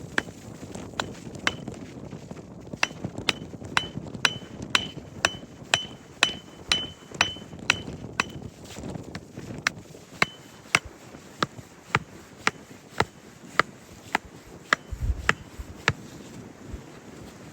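Steady hammering, about two blows a second, many of them with a short metallic ring.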